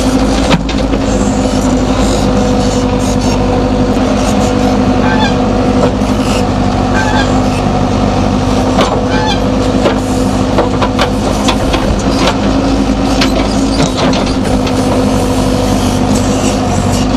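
Diesel engine of a JCB 3DX backhoe loader running steadily at working speed, with scattered clanks and rattles from the machine as it works.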